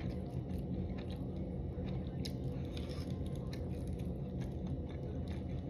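A person chewing and biting a mouthful of spicy dry hot pot, with a few faint short clicks over a low steady background.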